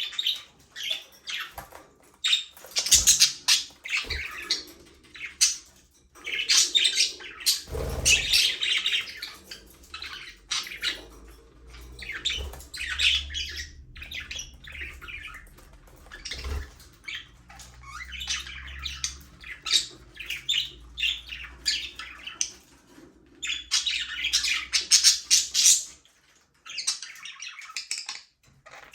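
A group of budgerigars chattering nonstop with fast chirps, warbles and squawks that overlap, with a few dull thumps in between.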